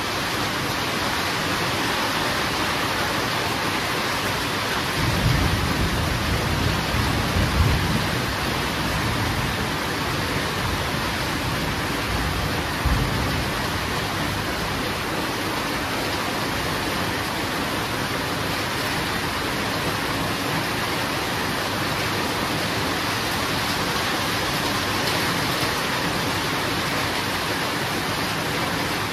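Steady heavy rain hissing, with a low rumble of thunder about five seconds in that lasts a few seconds, and a short sharp clap of thunder near the middle.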